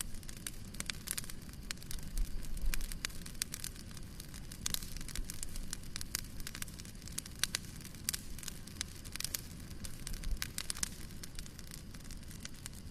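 Wood fire crackling in a fireplace: irregular sharp pops and snaps over a low steady rumble of burning, with a few soft low thumps.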